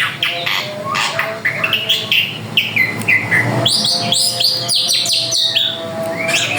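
Drongo singing a fast, continuous run of varied whistles and chirps, many notes sliding up or down in pitch.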